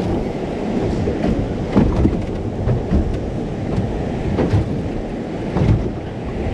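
Wind buffeting the microphone on a small boat, with water and the hull giving a low rumble and a few irregular knocks.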